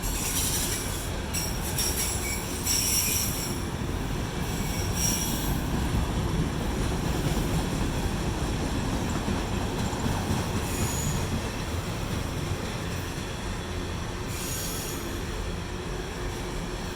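Autorack freight cars rolling past on the rails: a steady low rumble of wheels on track, with short high-pitched wheel squeals coming and going several times.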